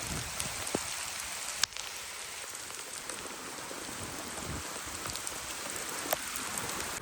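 Steady rain falling, an even hiss of drops hitting surfaces. A few sharper single drop hits stand out, about three times.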